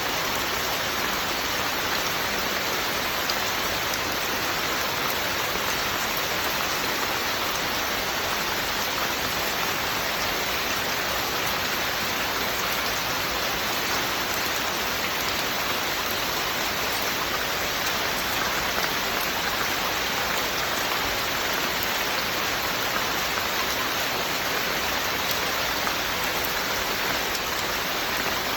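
Steady, heavy rain falling, an even continuous hiss without thunder or other sounds.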